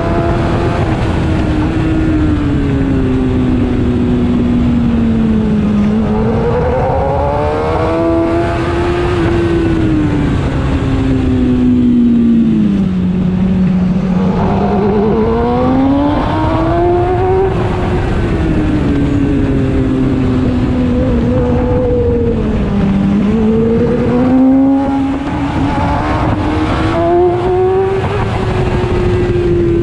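Kawasaki ZX-10R's inline-four engine heard onboard at track speed, its note climbing under acceleration and dropping away when the rider backs off, over and over through the corners, over a steady rush of wind.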